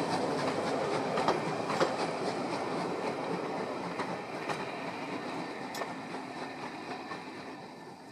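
Passenger coaches of a steam-hauled heritage train rolling along the track, their wheels clicking irregularly on the rails, the sound fading steadily as the train draws away.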